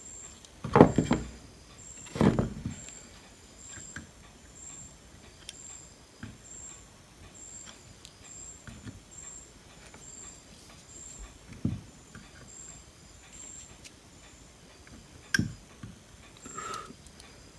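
Workbench handling noise during electronics repair: two loud knocks about a second and a half apart near the start, then a few lighter taps, over a faint high-pitched pulse repeating about twice a second.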